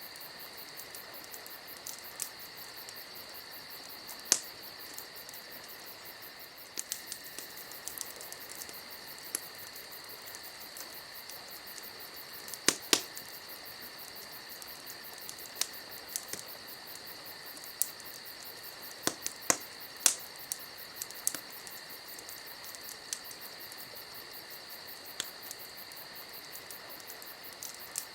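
Wood fire crackling, with irregular sharp pops scattered throughout, over a steady high-pitched hiss.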